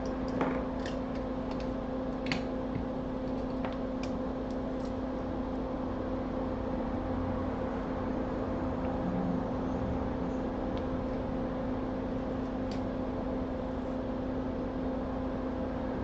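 Steady hum of small bench equipment running, like a fan or blower motor, with a few light clicks and taps in the first few seconds as the soldering iron tip is changed.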